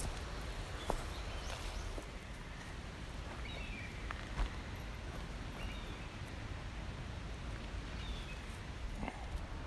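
Outdoor ambience: a steady background hiss with a few short bird chirps scattered through it and several light knocks, one about a second in and a pair around four seconds in.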